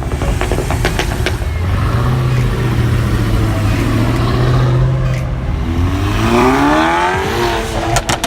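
Car engine running, held at a steady pitch, then revved with its pitch climbing about six to seven seconds in. There are a few sharp cracks near the end.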